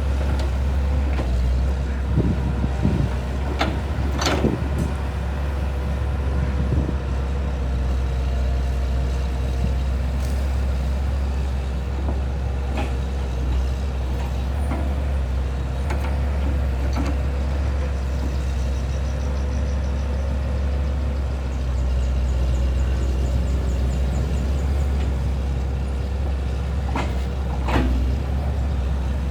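A motor running steadily with a constant low hum and an even tone, with scattered sharp knocks and clatters over it, the loudest about four seconds in.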